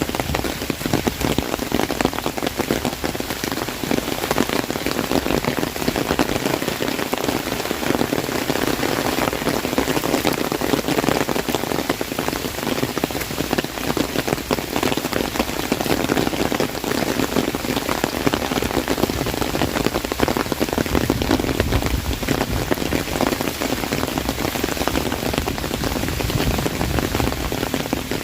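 Heavy rain falling on an umbrella overhead: a dense, steady mass of drop hits with water dripping off it.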